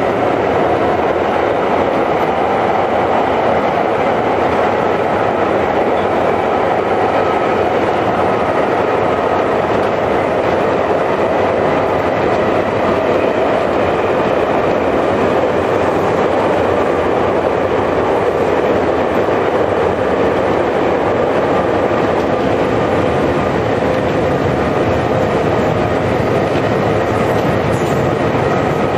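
Running noise heard inside a Tokyo Metro 5000 series subway car under way: a steady rumble of wheels on rail, with faint high whining tones held level throughout.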